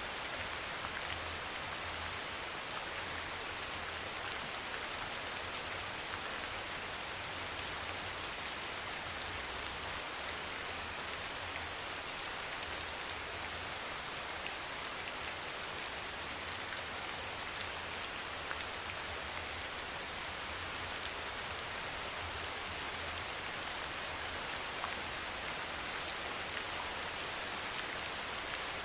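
Steady soft rain falling, an even patter with scattered individual drops.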